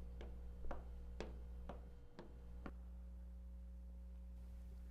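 Sharp ticks at an even pace of about two a second, stopping a little under three seconds in, over a steady low hum.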